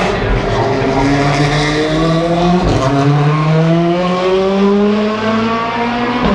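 A field of DTM race cars with naturally aspirated V8 engines accelerating together at a race start, several engine notes overlapping and rising steadily in pitch, with a gear shift a little under three seconds in.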